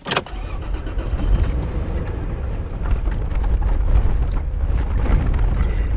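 Third-generation Toyota 4Runner driving slowly along a rough dirt trail: a steady low rumble of engine and tyres.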